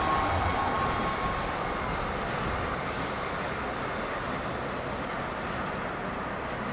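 Rumble of a double-deck electric passenger train running away from the platform, fading steadily, with a thin whine dying out in the first second. A brief hiss about three seconds in.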